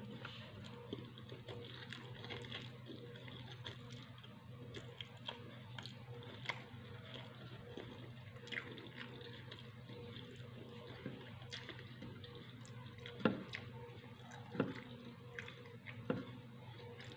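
Close-up eating sounds of a person chewing with many small wet mouth clicks and smacks, a few louder ones in the second half, over a steady low hum.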